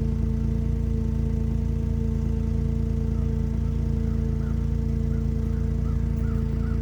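An engine runs steadily with an even hum and low rumble. From about halfway through, a faint series of short chirps repeats a few times a second over it.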